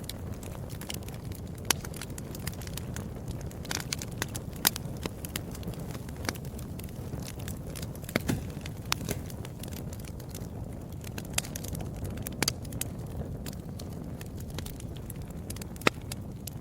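Fireplace fire crackling: irregular sharp pops, a few of them louder, over a steady low rumble of burning.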